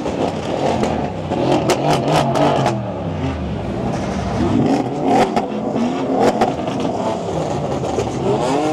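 Several modified supercars' engines revving hard together, their pitches rising and falling over one another, with a few sharp cracks among the revs.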